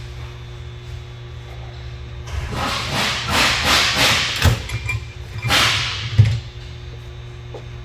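Two stretches of loud hissing, a few seconds long in all, each ending in a sharp knock, over a steady low hum.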